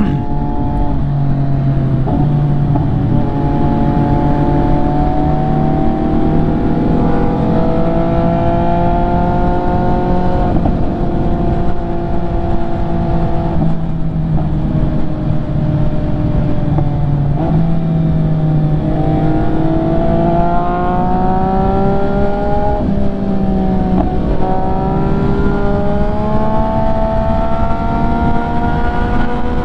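MV Agusta F3's inline-three engine with an aftermarket exhaust, under way. Its pitch climbs and then drops sharply several times as the bike pulls through the gears, over steady wind rush.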